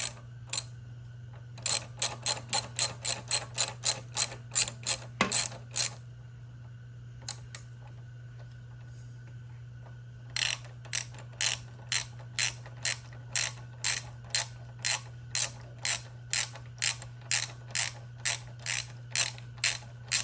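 Hand ratchet wrench being worked on a bolt, clicking with each stroke at about two strokes a second: one run of a few seconds, then a longer run starting about halfway in.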